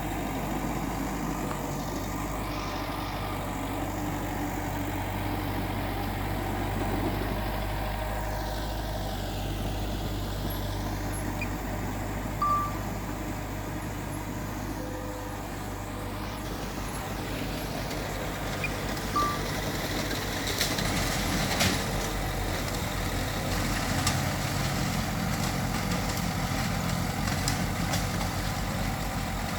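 Heavy diesel machinery running steadily, with two short high beeps several seconds apart and a few sharp knocks in the second half.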